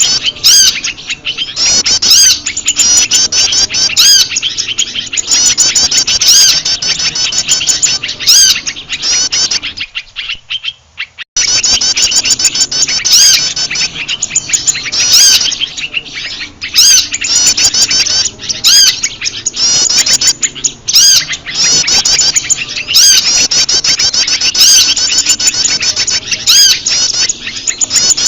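Bird-lure recording of prenjak lumut calls mixed with a chorus of agitated small birds: dense, rapid high-pitched chirps and trills. The chorus drops out for about a second roughly ten seconds in, then resumes just as thick.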